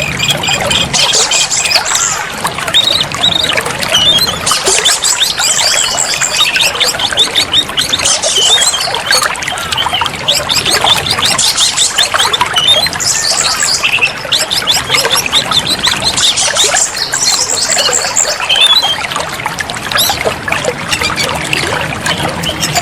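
Oriental magpie-robin (kacer) singing, with fast high trills and chirped phrases coming every second or two, over a steady trickle of running water.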